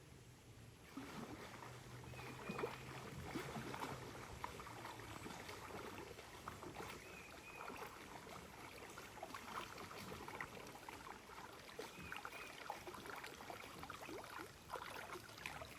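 Kayak paddle blades dipping and pulling through calm water stroke after stroke, with splashing and dripping water off the blades.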